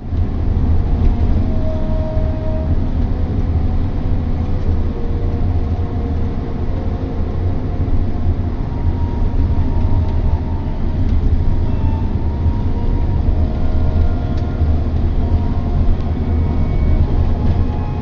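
Steady low rumble of a moving vehicle: engine and road noise while driving, with faint brief tones here and there.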